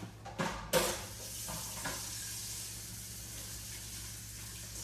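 Taco meat sizzling in a hot pan of pasta. A couple of clatters of a utensil on the pan come first, then the sizzle starts sharply under a second in and goes on steadily.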